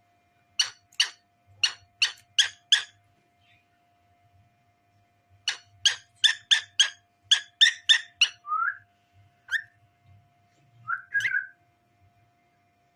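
Cockatiel calling: two runs of short, sharp chirps at about three to four a second, with a pause between them, then a few short whistled notes.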